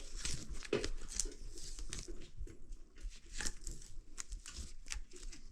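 Irregular clicks, taps and rustling of hands handling small parts and tools.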